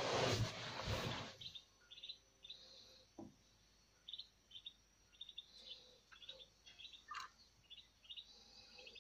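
A brief rush of noise in the first second or so, then small birds chirping: many short, high chirps in quick irregular runs.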